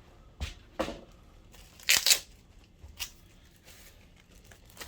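A couple of light knocks from handling, then a short, loud tearing sound about two seconds in, as painter's tape is pulled off its roll and torn, followed by another small click.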